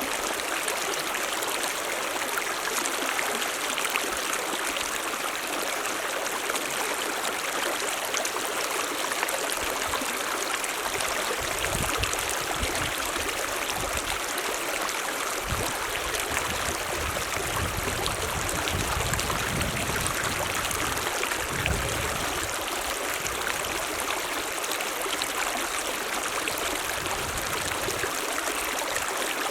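Mountain stream running, a steady rush of water with gurgling. Low rumbles come and go in the middle.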